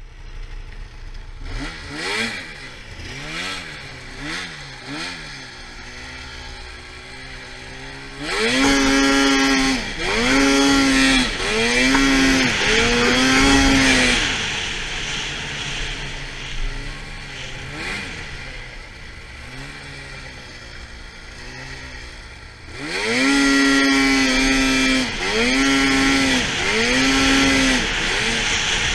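2013 Arctic Cat F800 RR snowmobile's two-stroke twin engine being revved in repeated throttle blips, its pitch rising and falling with each one. The revs are lighter at first, then come in two loud bursts of three or four strokes each, one in the middle and one near the end, with quieter running between them.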